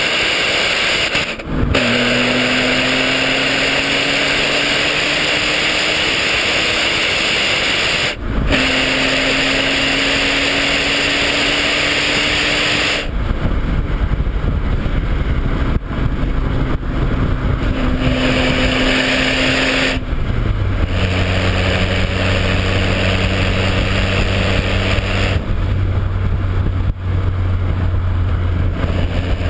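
Alfa Romeo 166 3.0 V6 exhaust heard right at the tailpipe, with strong hiss. The engine is held at raised revs, its pitch slowly climbing and dipping briefly twice; about 13 seconds in the revs drop in steps, and it settles to a low idle a little after 20 seconds.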